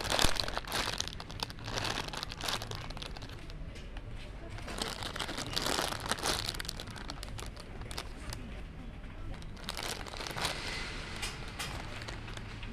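Plastic packaging crinkling in irregular bursts as it is handled.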